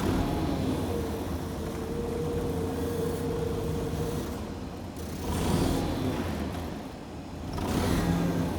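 A motor vehicle engine running, with a steady whine over the first few seconds and two swells in level, one about five and a half seconds in and one near the end.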